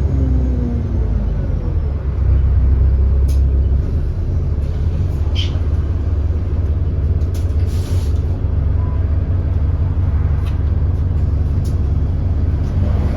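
Alexander Dennis Enviro400 bus's 6.7-litre Cummins ISB diesel engine running with a heavy rumble; the engine has an exhaust leak. Its pitch falls at the start as the bus slows, a short air hiss comes about eight seconds in, and the pitch begins to rise again near the end.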